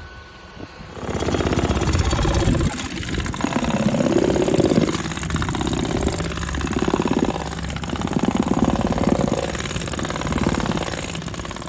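A large engine starts running loudly about a second in, with a rapid even pulsing and its pitch rising and falling every second or so as it works.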